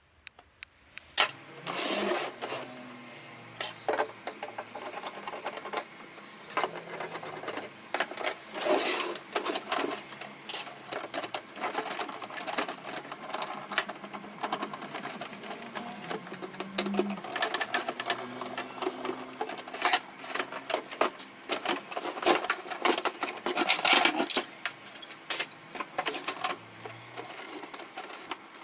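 Irregular mechanical clicking and clattering of small printer parts, with a low hum that shifts in pitch now and then.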